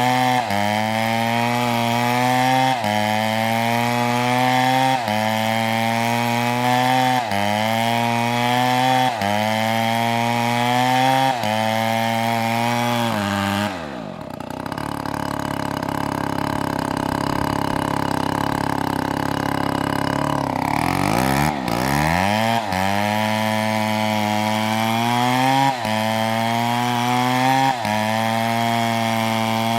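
Two-stroke chainsaw cutting palm wood, its engine pitch rising and then dropping back about every two seconds as the chain bites. About halfway it sinks to a low, rough pitch for several seconds, then revs back up and the rhythm resumes.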